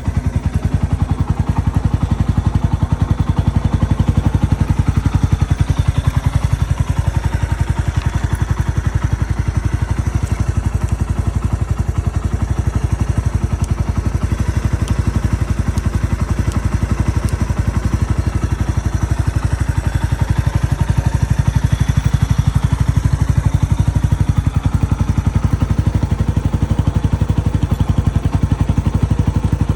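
Yamaha TW200's single-cylinder four-stroke engine running steadily, a continuous fast train of firing pulses with only slight rises and falls in speed.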